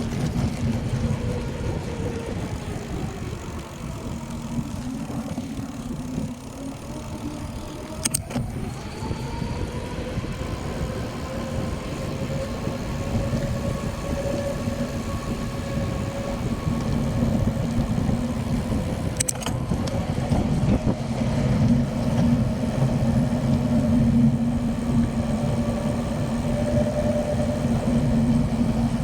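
A car engine running steadily at low speed, its pitch slowly rising and falling, with two brief sharp clicks.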